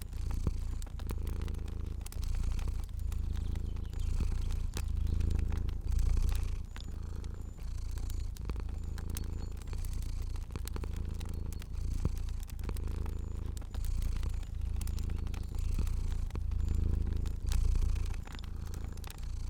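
Domestic cat purring steadily, a low rumble that swells and eases with each breath about once a second, with small crackles and pops from a wood fire scattered through it.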